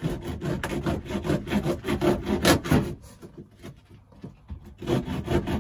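Quick back-and-forth rasping strokes of a hand tool working a pipe, in two spells with a short pause in the middle.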